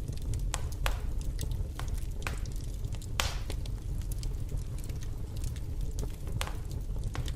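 Wood logs burning in a fireplace: a steady low rumble of flames with irregular sharp crackles and pops, the loudest about three seconds in.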